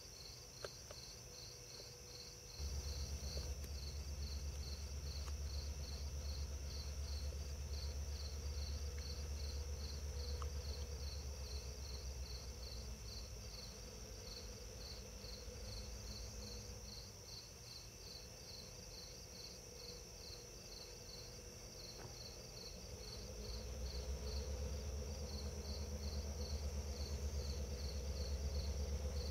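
Crickets or katydids chirping in a steady rhythm, about two pulses a second. A low rumble starts abruptly a few seconds in, fades about halfway through and comes back near the end.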